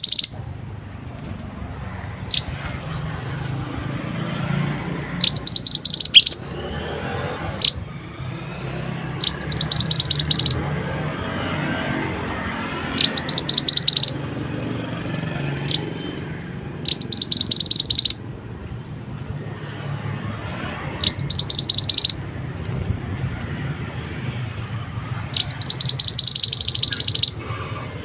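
A mantenan songbird singing loud, rapid high trills, each lasting about a second and a half and repeated roughly every four seconds, with a few single short chirps in between. A steady low rumble runs underneath.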